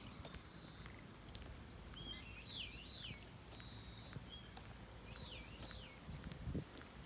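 A bird calling in the background: two wavering calls that swoop up and down, with a few shorter steady whistles between them. Faint ticks and a low thump near the end.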